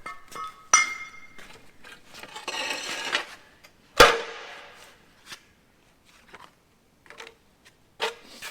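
Metal tools and parts clanking and clinking. There is a ringing clink at the start and a short rattle of loose metal, then a loud metal clang about four seconds in that rings out, and another knock near the end.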